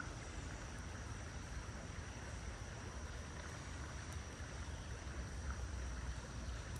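Steady rush of a small creek's running water, with a low wind rumble on the microphone.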